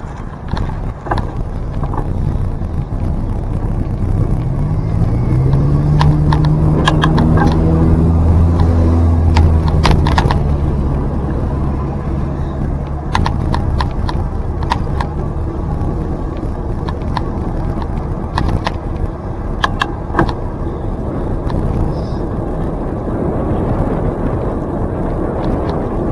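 Rushing wind noise on the microphone of a moving bicycle, with a low motor hum that rises in pitch about a quarter of the way in and holds for several seconds before fading, and scattered sharp clicks and rattles.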